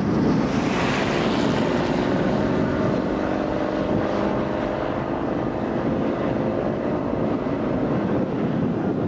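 Steady, loud rushing roar of tornadic wind, with a faint steady hum through the middle of it.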